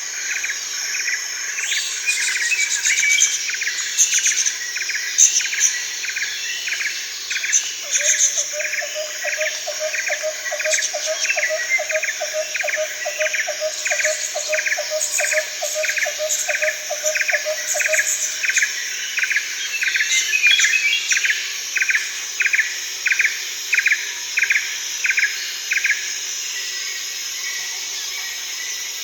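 Daytime rainforest birds and insects: a steady high insect drone under scattered bird chirps. A call repeats about one and a half times a second and stops about 26 seconds in. A lower, fast-pulsing call joins from about 8 to 18 seconds in.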